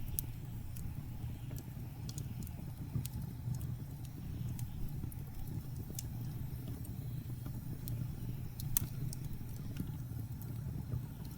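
Wood fire crackling with scattered sharp pops, the loudest nearly nine seconds in, over a steady low rumble of blizzard wind.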